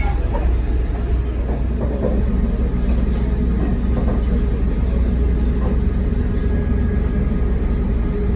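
Diesel passenger train running nearby, a steady low rumble with a constant engine hum.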